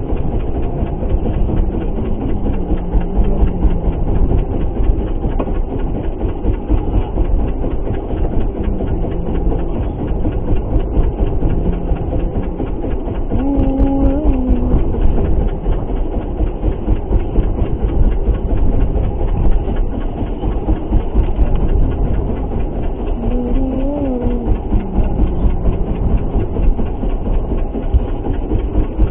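Boat engine running in a steady, loud, low rumble, mixed with wind and water noise from rough sea.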